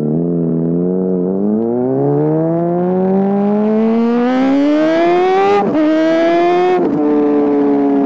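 Honda CBR600RR inline-four sport bike engine through a GPR Deeptone aftermarket exhaust, its revs climbing steadily for several seconds. The pitch breaks and drops briefly about five and a half seconds in and again near seven seconds, then settles into a steady, slowly falling note.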